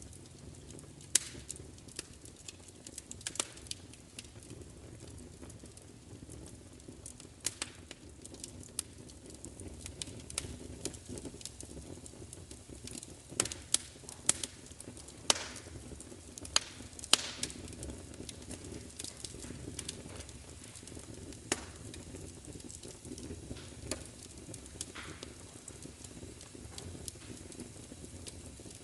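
Wood fire crackling: irregular sharp pops and snaps over a steady low rumble of burning, with a cluster of louder pops around the middle.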